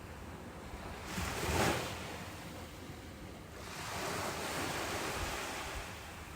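Ocean surf washing on a beach: a wave breaks and surges about a second and a half in, and another swell washes in broadly around four seconds, over a steady hiss of water.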